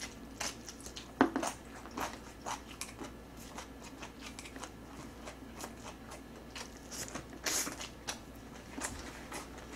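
Close-miked mouth sounds of a person eating black-bean instant noodles (jjajang ramen): irregular wet smacks and clicks of chewing, one or two a second, with a louder, longer burst about seven and a half seconds in.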